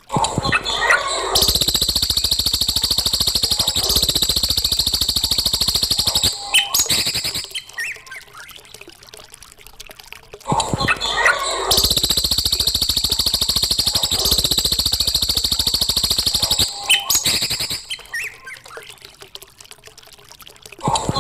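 Masteran bird-song tutoring recording: a few short chirps lead into a long, fast, high buzzing trill lasting about six seconds. After a quieter gap of a few seconds, the same phrase repeats.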